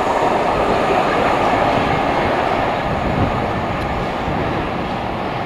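A train rolling past on the track, its rumble of wheels slowly fading.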